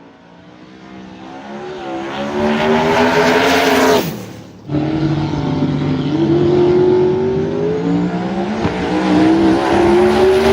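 Cummins diesel engine of a dually pickup truck accelerating hard down a drag strip, getting louder over the first few seconds. About four seconds in the sound drops out for a moment, then the engine runs on at high revs with its pitch rising and falling.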